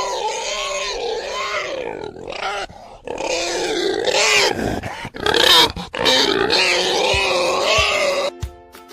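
Pig squealing in long, wavering, high-pitched calls, broken by short pauses.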